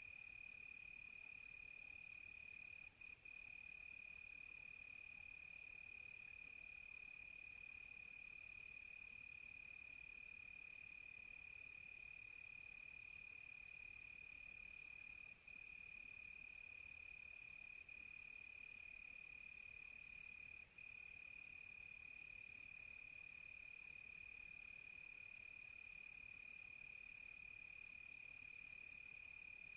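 Crickets chirping at night, faint: one continuous high trill, with a higher, rapid pulsing chorus over it that drops out for several seconds midway.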